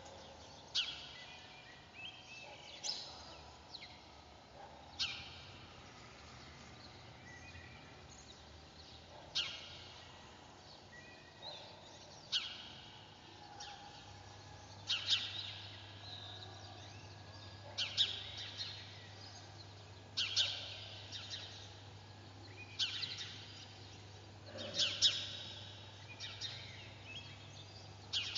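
A bird calling: short, high chirps that slur downward, repeating every two to three seconds, with fainter ones in between.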